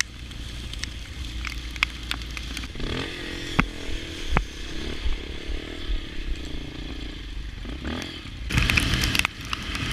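Motorcycle engine running at low speed, with scattered sharp clicks and crackle, and a louder noisy rush about a second before the end.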